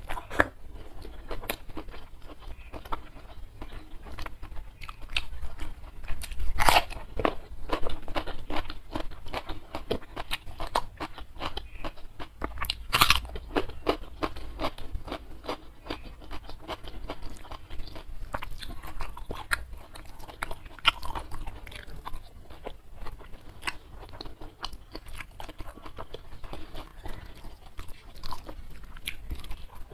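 Close-miked eating: a person chewing and crunching mouthfuls of rice, sambal and raw vegetables, with steady wet mouth clicks and two louder crunchy bites, about 7 and 13 seconds in.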